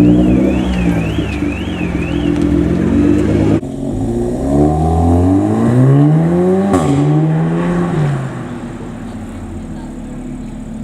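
Car engines being revved. A rev rises and falls while a warbling car alarm sounds until about two seconds in; after a sudden cut, another engine is revved up over about three seconds to a sharp crack at the top and drops back to idle.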